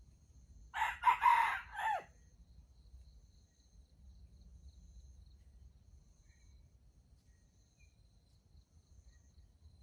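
A junglefowl rooster crowing once, a short crow of just over a second that drops in pitch at the end. Faint steady chirring of crickets runs underneath.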